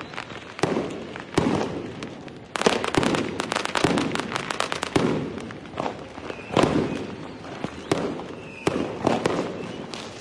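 Fireworks going off: a string of sharp bangs, each with a ringing tail, and a dense run of rapid crackling from about two and a half to five seconds in.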